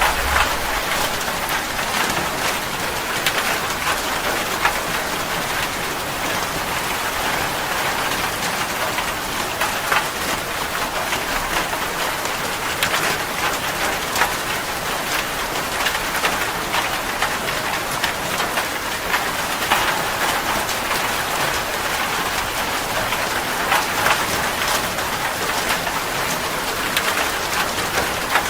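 Steady rain falling on a surface, a dense even patter with many individual drops heard distinctly on top.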